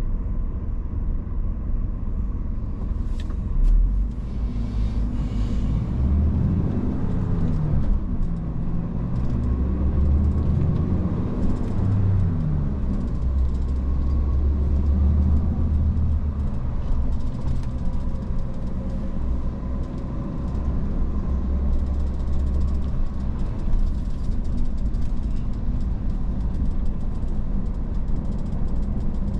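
Iveco S-Way truck's diesel engine and road noise while driving, a steady low rumble. For several seconds in the first half the engine note steps up and down in pitch.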